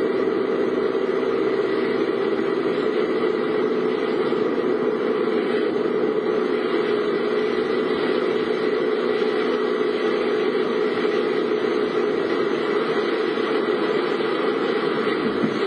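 Steady running noise of a car, heard from inside the vehicle, with no distinct events.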